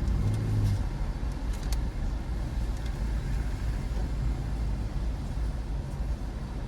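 Steady low engine rumble, with a few faint clicks in the first two seconds.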